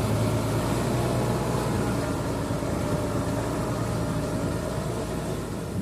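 Heavy vehicle engine running steadily at a low, even pitch, growing slightly quieter toward the end.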